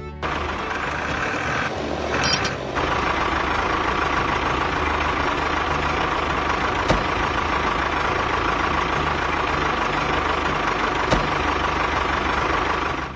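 A motor or engine running steadily with a faint steady whine, the running noise of a mini truck. Two sharp clicks come partway through.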